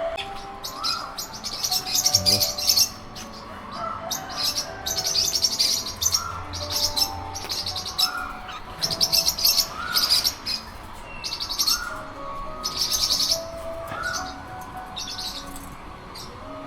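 Several birds calling in an aviary: bursts of rapid, high chirping about a second long, again and again, with another bird's short rising-and-falling call repeated about every two seconds.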